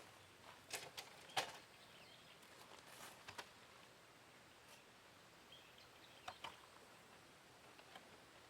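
A few faint, sharp taps and clicks over a quiet background hiss, the loudest about a second and a half in and a pair of them near the middle.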